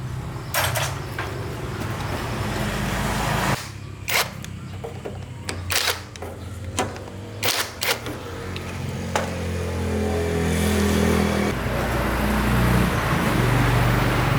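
A small engine running with its pitch shifting up and down, broken by several sharp clacks about four to eight seconds in, with the noise building toward the end.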